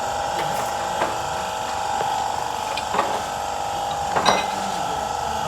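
A steady machine whine with a few sharp metallic clinks, like tools or parts being handled, three times.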